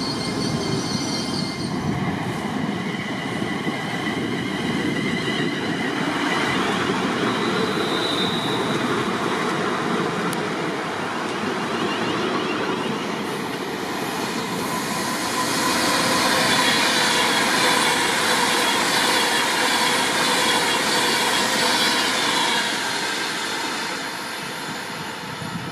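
A train running along the station tracks close by: a steady rumble of wheels on rail with high squeals from the wheels. It swells about halfway through and eases off near the end.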